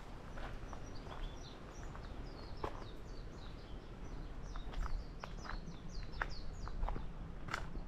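Small birds chirping in quick series of short, high, downward-slurred notes, with a few irregular sharp crunching steps.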